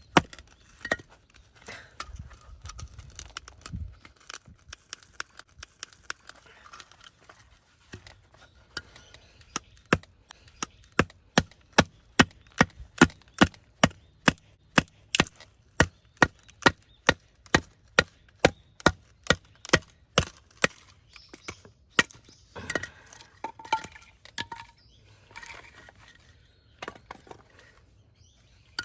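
Firewood being chopped into kindling: a run of sharp blows on wood, about two a second, with quieter, irregular knocks before and after.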